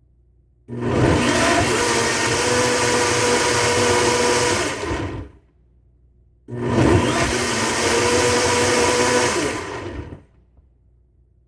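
Blender pulse-blending a smoothie of bananas: the motor runs in two bursts of about four seconds each, with a short pause between.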